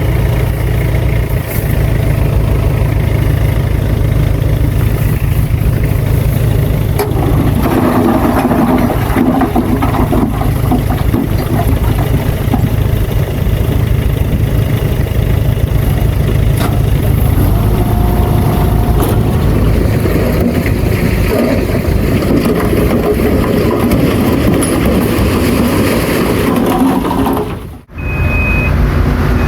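Heavy diesel earthmoving machine running steadily with a deep, loud rumble. The sound drops out abruptly for a moment near the end.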